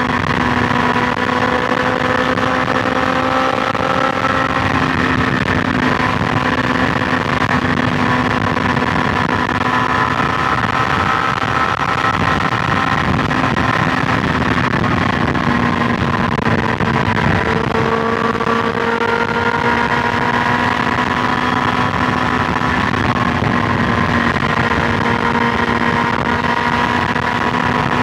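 BMW S1000XR's inline-four engine running at a steady highway cruise, its note holding nearly level with only slight dips and rises, over a steady rush of wind and road noise.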